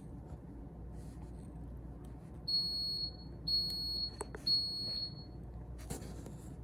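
Three high-pitched electronic beeps, each about half a second to almost a second long, about a second apart, with a short click and a brief rustle of handling.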